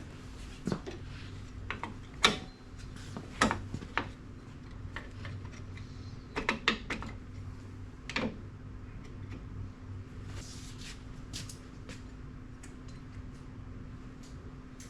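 Metal drum-brake hardware clinking and clanking as shoes, springs and hold-down parts are fitted by hand. There are a few sharp clanks in the first eight seconds, the loudest two about two and three and a half seconds in, then only faint ticks, all over a steady low hum.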